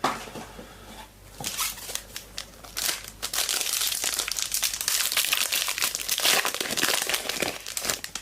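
Trading card pack wrapper crinkling as it is torn open and handled, with a sharp rip at the start and dense crackling for most of the second half.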